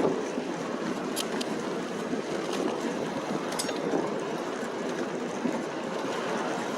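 Wind rushing over a handlebar-mounted phone's microphone on a moving e-bike: a steady noise with no pauses.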